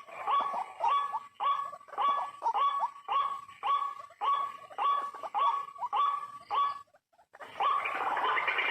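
White-breasted waterhen calling over and over, about two harsh calls a second, in the steady repeating pattern of its kru-ak call. The calls stop a little before the end, and after a short gap a dense, continuous sound begins.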